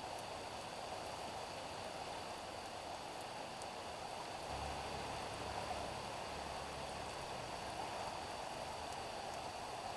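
Steady rain falling on a street, an even hiss. A low rumble comes in about four and a half seconds in and fades about three seconds later.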